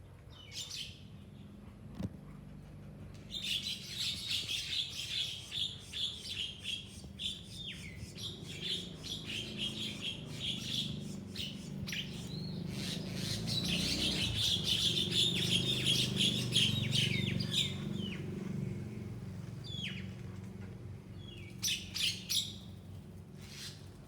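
Birds chirping and squawking rapidly in a squabble, a dense run of sharp high calls that swells and fades, with a short burst of calls again near the end. A low rumble sits beneath the calls, loudest about two-thirds of the way through.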